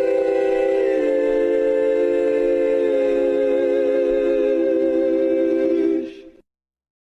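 A sound effect of voices humming or singing a sustained chord, a cappella like a small choir. The top note stays steady while the lower voices step to new notes about a second in and again near the end. It fades out about six seconds in.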